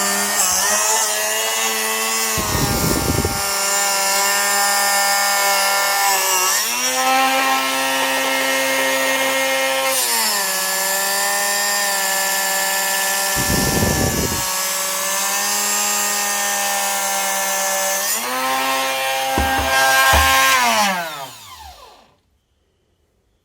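Drill Doctor 750X drill-bit sharpener's electric motor running with its grinding wheel cutting a split point on a drill bit, the motor's pitch sagging each time the bit is pushed in and recovering as it eases off, with two brief rough rumbles along the way. Near the end it is switched off and its pitch falls as it spins down to a stop.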